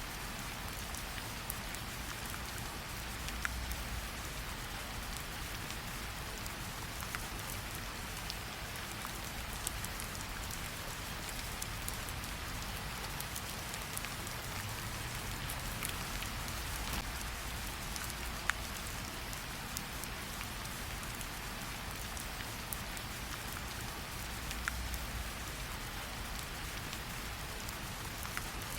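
Steady rain hissing, mixed with a campfire whose few sharp pops stand out, about three and a half and eighteen seconds in. A low rumble rises briefly twice.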